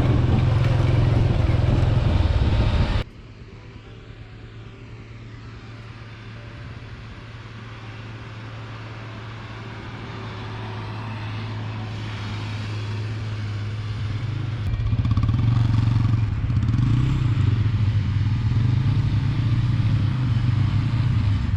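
An engine running with a steady low hum, loud at first; after a sudden cut about three seconds in it is faint, grows steadily louder, and is loud again from about fifteen seconds in.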